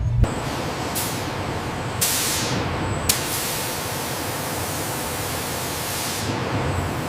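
A steady, loud hiss, like rushing air or spray, with fresh surges starting sharply about one, two and three seconds in.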